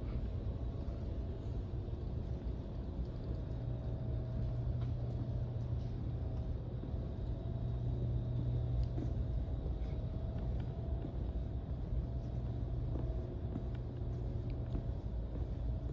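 Steady low background rumble with a faint steady hum over it and a few scattered faint ticks.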